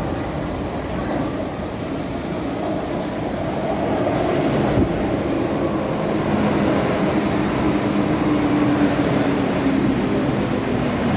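MTR M-Train electric multiple unit pulling into a station platform and slowing, with high wheel and brake squeal and a lower whine that drifts down in pitch as it slows. The squeal stops about ten seconds in.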